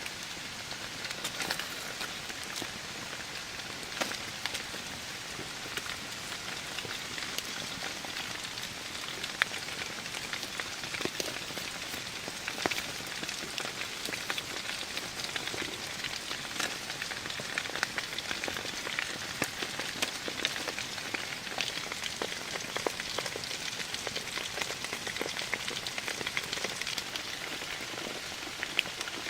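Steady rain falling, with many individual drops landing as sharp ticks over an even hiss.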